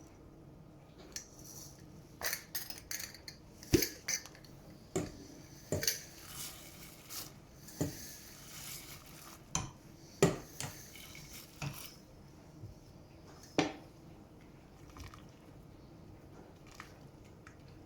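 Kitchen dishes and metal utensils clinking and knocking: an irregular run of sharp knocks and clinks that thins out after about fourteen seconds.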